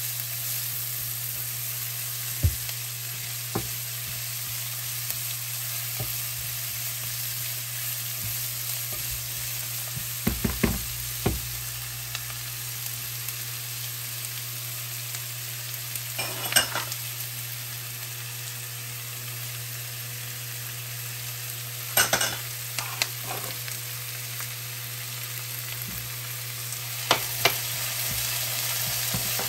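Chopped onion, green chilli and tomato sizzling as they fry in oil in a nonstick pan, a steady hiss over a low hum. A silicone spatula stirs through them, with a few sharp knocks and scrapes against the pan.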